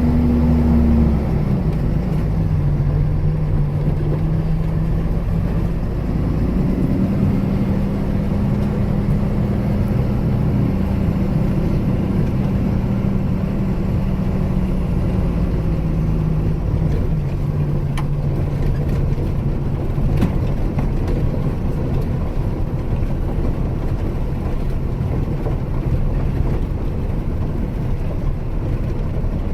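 Engine of a loaded 26-foot Penske box truck running as it is driven, under a steady rumble. The engine note drops about a second in, climbs again around six seconds in and settles lower again around sixteen seconds.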